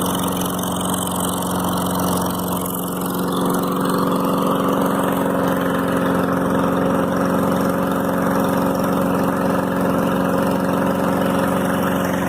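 Engine running steadily at idle after a cold start, its level rising slightly about four seconds in.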